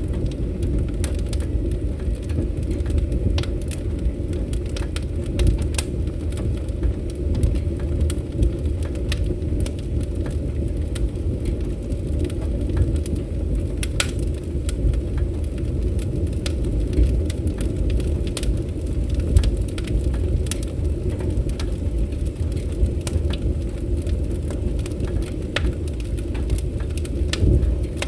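Wood campfire crackling, with scattered sharp pops and snaps at irregular intervals over a steady low rumble.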